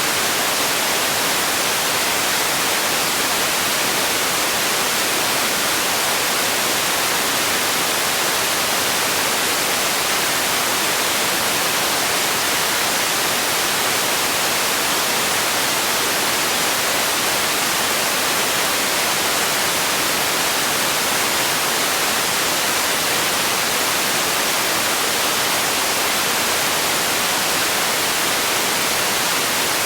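Steady synthetic noise for sleep: an even, constant hiss, strongest in the upper range, with no change or breaks.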